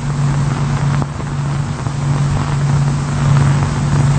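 Steady low hum with an even hiss over it, like machinery running.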